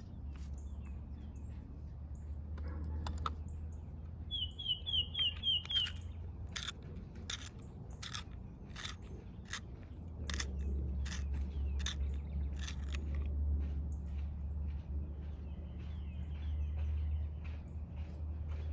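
Coloring strokes scratching on paper, a little more than one a second. A bird gives a quick run of six short chirps early on, over a steady low rumble that grows louder about halfway through.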